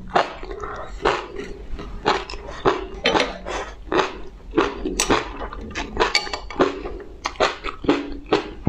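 Close-miked eating sounds: a person chewing, with irregular wet smacks and clicks several times a second.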